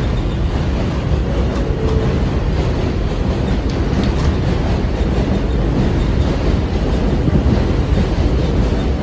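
R160 subway train pulling out of the station after its doors close, a steady running noise that builds slowly, with the wheels clacking over the rail joints.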